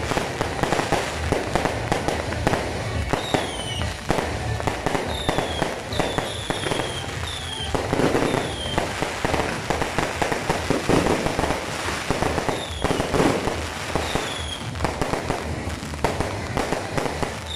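Aerial fireworks bursting in quick succession: a continuous crackle and pop of exploding shells and stars, with heavier bursts now and then. Short, high, falling whistles recur every second or two.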